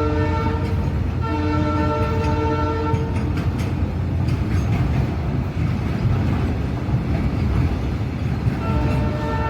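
An Indian Railways locomotive horn sounding in blasts: one ending about half a second in, another from about one to three seconds, and a third starting near the end. Between them the train runs by with a steady rumble and rail clatter.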